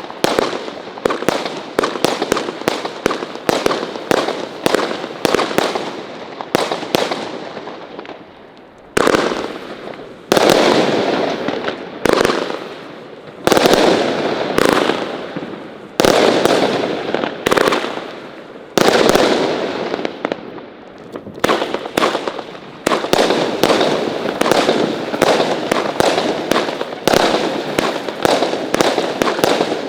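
Consumer firework batteries firing: rapid strings of sharp bangs several a second, broken from about a third of the way in by louder single booms every second or two with echoing tails, then back to dense fast banging toward the end.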